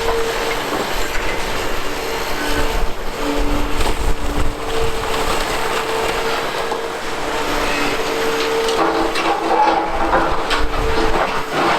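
Heavy Liebherr demolition excavators working concrete footings: steady engine and hydraulic noise with crunching and knocking of concrete and steel. A squealing tone comes and goes throughout, and the crunching grows busier about nine seconds in.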